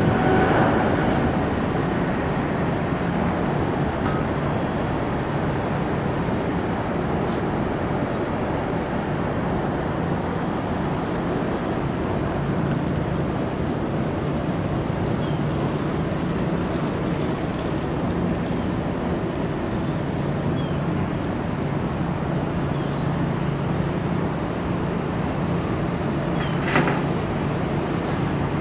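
Steady jet engine noise from an airliner at the runway, an even rushing sound with a low hum under it that holds at much the same level throughout.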